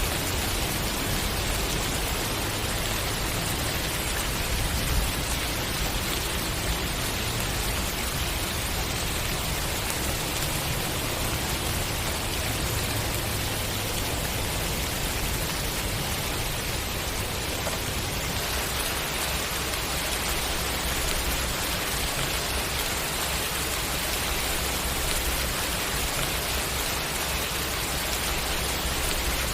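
Steady rainfall, a continuous even hiss of rain on surfaces, with a couple of slightly louder drops about five and seven seconds in.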